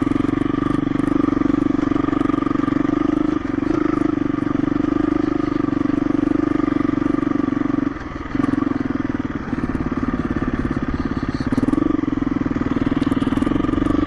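KTM 350 EXC-F single-cylinder four-stroke dirt bike engine running steadily under moderate throttle while riding. It briefly drops off about eight seconds in as the throttle is closed, then picks up again.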